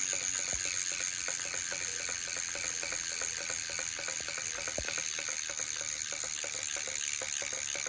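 Ride1Up e-bike rear hub motor turning unpowered, with a fast, even ticking knock and a steady high whir; two heavier knocks stand out, about half a second and nearly five seconds in. The knocking is typical of hub bearings that are not in parallel planes, and the rear dropouts are known to be misaligned.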